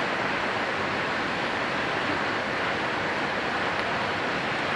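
Steady, even rushing noise, with no distinct events.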